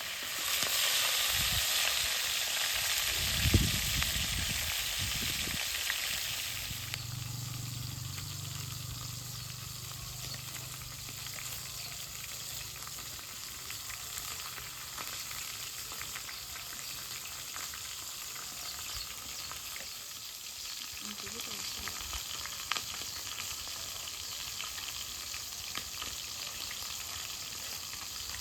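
Food frying and sizzling in a hot pan, louder for the first six seconds and then settling to a quieter, steady sizzle. There is a knock about three and a half seconds in.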